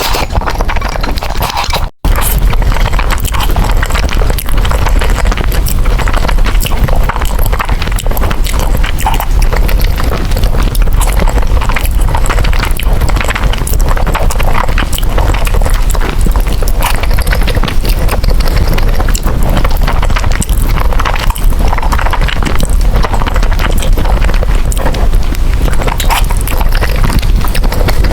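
Close-miked ASMR eating of noodles: a continuous run of wet chewing and mouth clicks. There is a brief drop-out about two seconds in.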